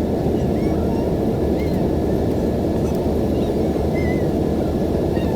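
Steady, even rumble of airliner noise heard from inside the cabin, with no rises or breaks.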